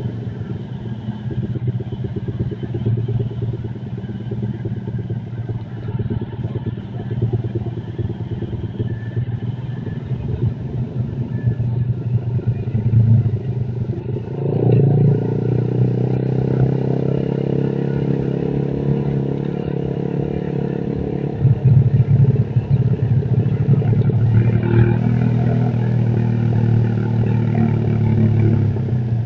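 Small motorcycle engine running as it is ridden along, its note rising and holding steadier about halfway through, then changing again a few seconds later.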